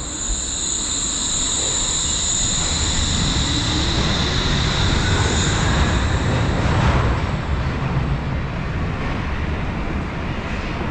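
Wuppertal Schwebebahn suspended train running, a steady rumble under a high steady whine that fades out about six seconds in, the whole sound swelling to its loudest about seven seconds in and then easing.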